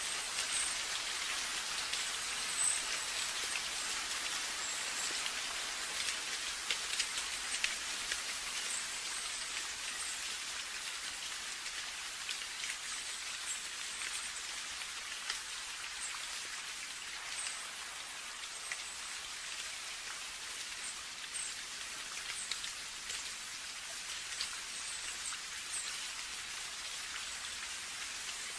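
Steady rain falling, a continuous hiss with many separate drops ticking and pattering on a surface.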